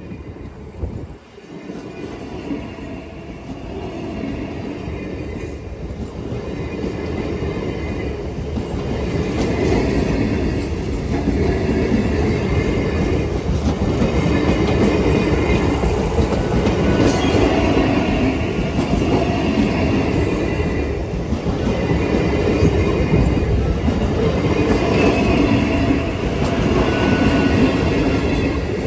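A train passing close by on its track: the rumble of its wheels on the rails builds over the first several seconds, then holds loud and steady.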